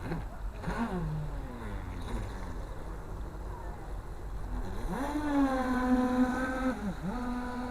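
Radio-controlled model boat's motor revving: its whine falls about a second in, then climbs sharply near five seconds and holds steady under throttle, dipping briefly and picking straight back up near the end.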